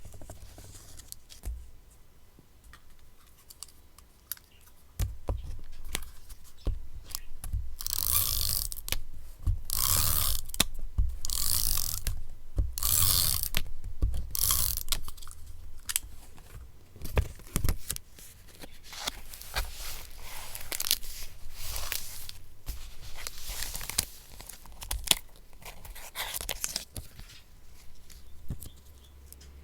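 Paper being handled: torn, crinkled and rubbed in irregular bursts, loudest in a run of separate rustles between about eight and fifteen seconds in, then softer scratching and rubbing.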